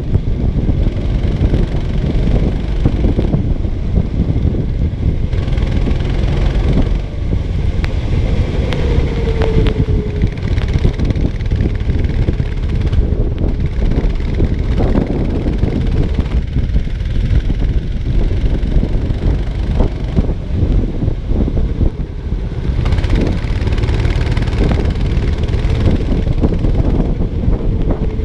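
Racing kart engine running continuously under throttle, heard onboard with wind buffeting the microphone and the chassis knocking and rattling over the track.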